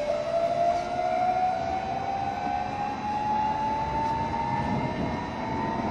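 JR Shikoku 7200 series electric train's inverter-driven traction motors whining, the pitch rising steadily as the train accelerates, over the rumble of the running gear.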